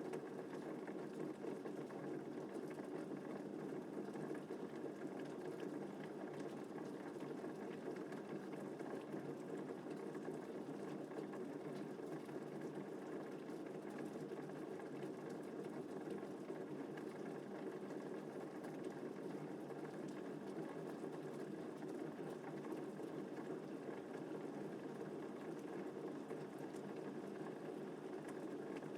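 Steady rain falling, an even, unbroken rush with most of its weight low and muffled; no thunder in this stretch.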